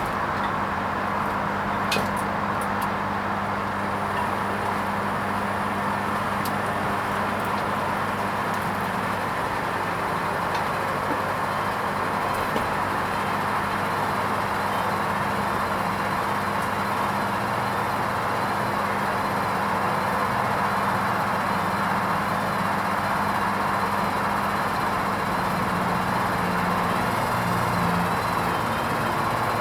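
Hoover Vision HVP16 washing machine running steadily on its wool rinse programme: an even motor whir with a constant low hum.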